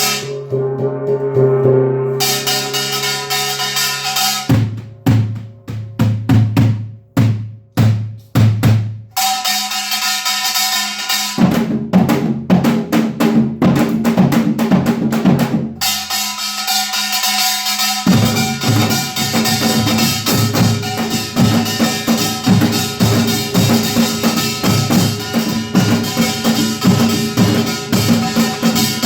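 Samulnori percussion ensemble of small gong, large gong and Korean drums played by children. A held gong note rings at the start, and the bright metallic clanging comes in about 2 seconds in. Heavy separate drum strokes follow around the fifth to ninth second, and from about 18 seconds all play together in a fast, dense rhythm.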